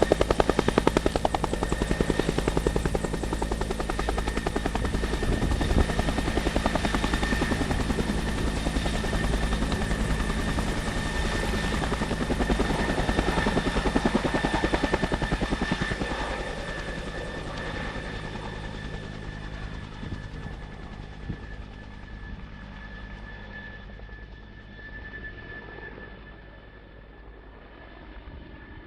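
Firefighting helicopter's rotor beating loudly with a fast, even pulse and a steady high whine. In the second half it grows steadily fainter and duller as it moves off.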